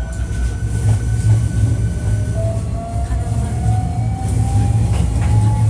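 Hankyu 1300 series electric train heard from inside the car, wheels and running gear rumbling, with a thin motor whine rising steadily in pitch as the train picks up speed. This car is one known for an unusual acceleration and braking sound.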